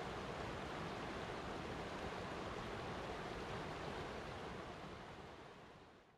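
Steady rush of flowing river water, fading out over the last second or two.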